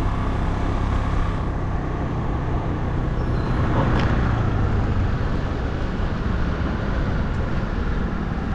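Steady road-vehicle noise while riding: a small engine running with wind and road noise, swelling a little for a couple of seconds in the middle.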